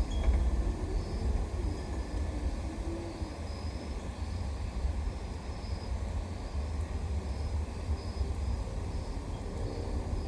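Outdoor background noise: a steady low rumble with short, faint, high-pitched chirps repeating about once a second.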